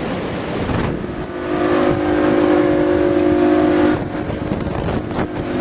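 Motorboat engine running at a steady pitch while the boat is under way, over a rush of wind and water. The engine tone drops back about four seconds in and comes up again near the end.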